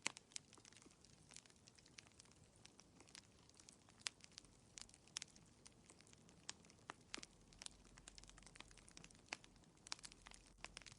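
Wood fire in a fireplace crackling faintly, with irregular sharp pops and snaps over a soft hiss.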